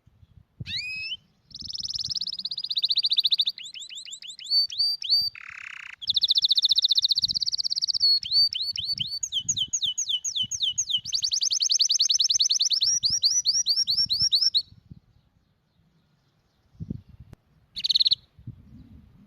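Domestic canary singing a long run of rapid trills, each a fast string of the same repeated note, switching quickly from one trill to the next. The song stops about 15 s in, and one short trill follows near the end.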